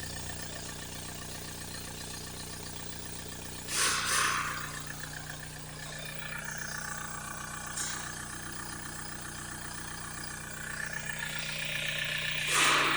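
Toyota Hiace 2.8-litre four-cylinder diesel engine running steadily at idle, with two brief louder bursts of noise: one about four seconds in and one near the end.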